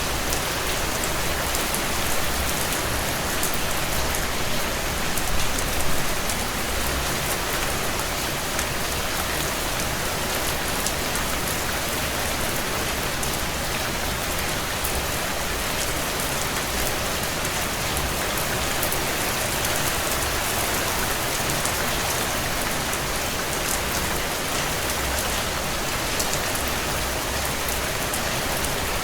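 Heavy rain falling on a tin roof: a steady, dense hiss with individual drops ticking through it.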